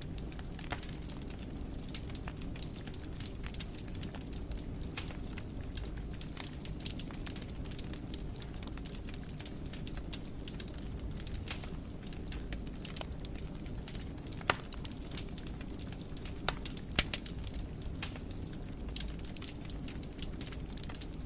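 Fire crackling in a fireplace: a steady low rumble of burning with frequent small snaps, and two louder pops about two-thirds of the way through.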